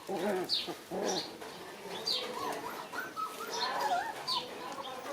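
Birds calling: short, high, falling chirps repeating, with warbling, wavering calls joining from about two seconds in.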